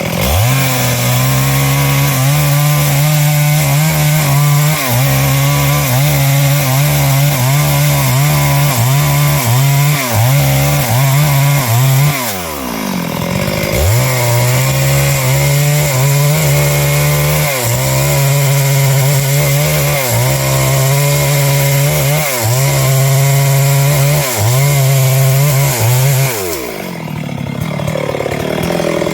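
Stihl MS 382 two-stroke chainsaw on a 24-inch bar running at full throttle through wood, its engine note wavering as the chain takes load. The revs drop off about twelve seconds in, pick back up, and fall away again near the end.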